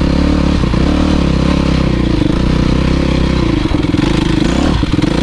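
Motocross bike engine running steadily, then dropping to lower revs about three and a half seconds in, with the exhaust pulses coming more slowly.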